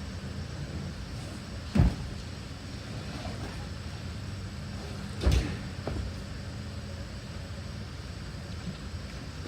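Junk and debris being thrown and dropped into a truck: two heavy thuds about three and a half seconds apart, the second followed shortly by a lighter knock, over a steady low hum.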